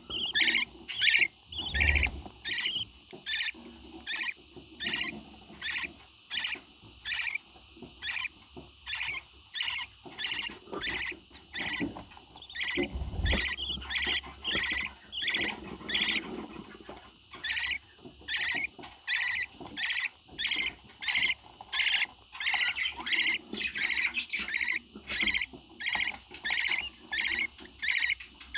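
A parrot calling over and over in short, high chirps, about two a second, with a couple of dull thumps.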